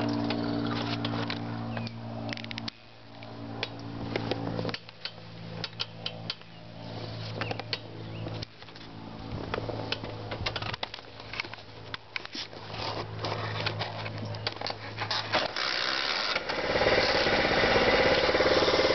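Baja 90cc four-stroke dirt bike being started: many short clicks and knocks, then the engine catches about sixteen seconds in and runs steadily. The engine is really quiet.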